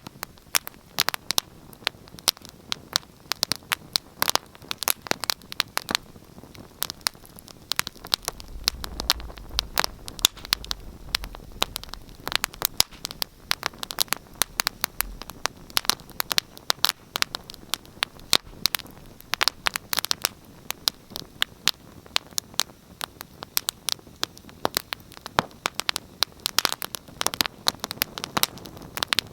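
Wood fire in a fireplace crackling, with many irregular sharp pops and snaps over a soft steady hiss. A low rumble joins in for several seconds near the middle.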